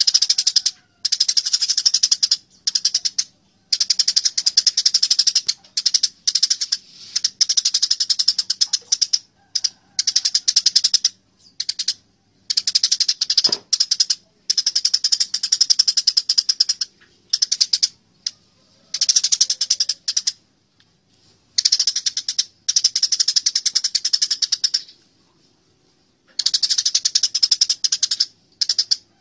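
Eurasian tree sparrows squabbling: fast, dense, harsh chirping in bursts of one to three seconds, broken by short pauses.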